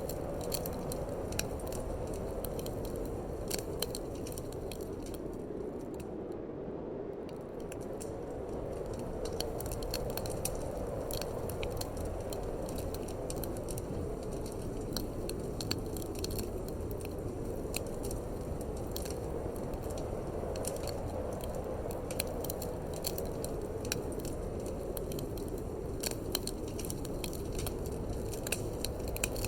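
Wood fire crackling in a fireplace, with frequent sharp pops and snaps over a steady low rush of wind.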